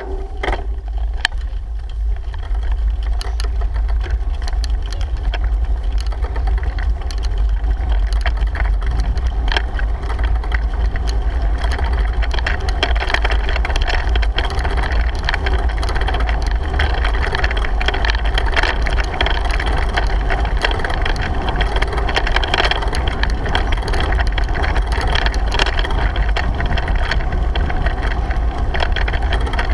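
Bicycle riding along, with a steady low wind rumble on the action camera's microphone over an even rush of tyre and road noise and occasional small clicks.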